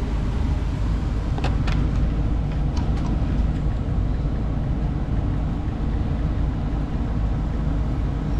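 Truck engine idling steadily with a low rumble, with a few light clicks between about one and a half and three seconds in.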